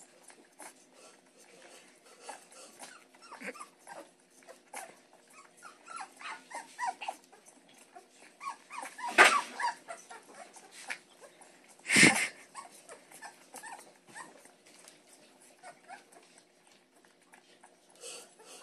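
Week-old Great Pyrenees puppy making short squeaks, grunts and whimpers while nursing on a bottle, with two much louder sharp sounds about nine and twelve seconds in.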